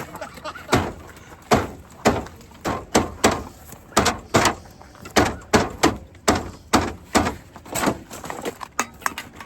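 Repeated heavy blows on the body of a second-generation Ram pickup, about two sharp metallic bangs and thuds a second, as the truck is being smashed up.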